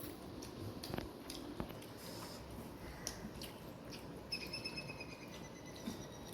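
Soft eating sounds: a person eating rice and fish curry, with scattered small clicks and squishes of chewing and mixing food. A faint high squeak comes about four seconds in.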